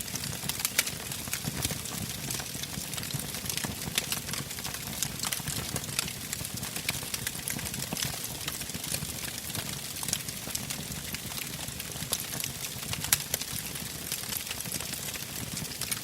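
Wood campfire crackling, with irregular sharp pops and snaps over a steady low rush of the flames; one pop stands out louder about three-quarters of the way through.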